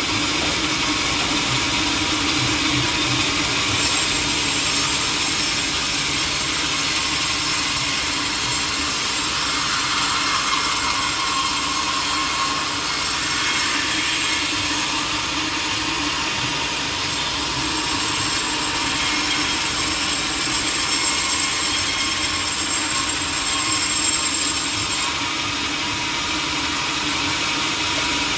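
A sawmill saw running and cutting through a teak log: a steady machine hum under a loud, even sawing hiss. The hiss grows brighter about four seconds in and eases a few seconds before the end.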